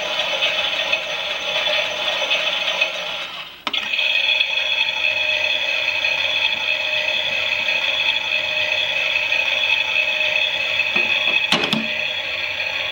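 Klein toy Miele washing machine running a wash: a steady whirring that drops out briefly about three and a half seconds in, with a couple of clicks near the end.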